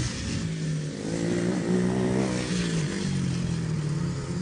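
Small dirt bike engine running, its pitch rising as the throttle opens about a second and a half in and falling back near the three-second mark.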